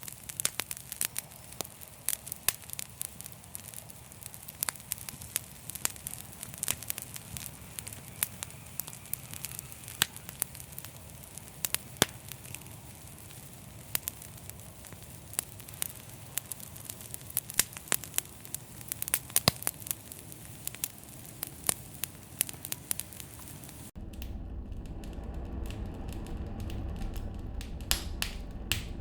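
Wood fire crackling, with frequent sharp pops and snaps over a soft hiss. About 24 seconds in, the sound changes abruptly to a low steady hum with fewer, sparser crackles.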